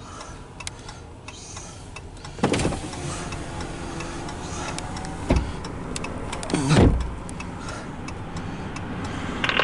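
Steady vehicle rumble, with two brief louder passes about two and a half and seven seconds in.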